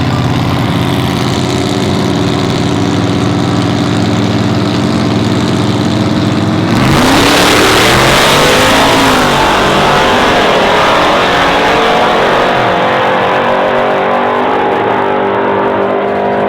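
Race trucks' engines running steadily at the line. About seven seconds in, a sudden loud launch follows, the engine noise surging and rising in pitch as the trucks pull away, then gradually easing off near the end.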